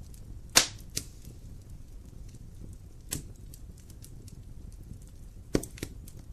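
Wood fire burning in a fireplace with a steady low rumble, the firewood crackling in sharp pops, loudest about half a second in and again near the end, with small ticks between.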